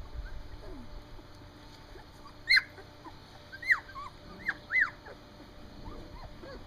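Three-week-old standard poodle puppies crying: a handful of short, high cries that rise and fall in pitch, the loudest about two and a half seconds in, three more over the next two and a half seconds, and fainter ones between.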